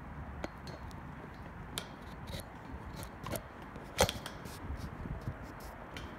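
Rain falling steadily, with irregular sharp taps close by, the loudest about four seconds in.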